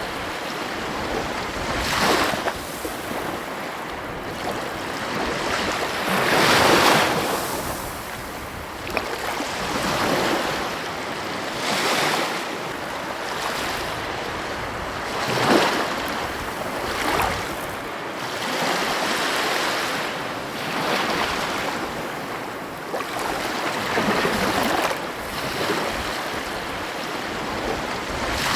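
Ocean surf: a continuous rush of waves breaking and washing in, swelling every few seconds, loudest about six and fifteen seconds in.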